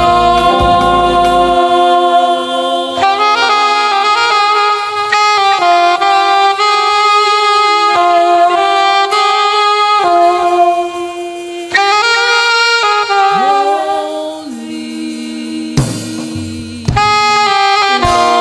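Slow live gospel band music led by a saxophone playing a held, sustained melody over chords, with a few drum hits near the end.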